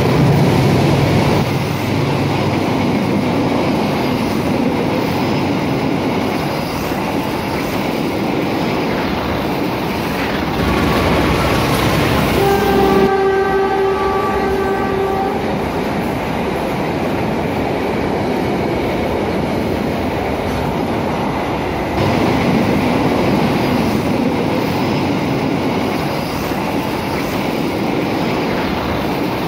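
Passenger train coaches running past at speed: a steady rumble of wheels on the rails. About halfway through, a train horn sounds one steady note for about two and a half seconds.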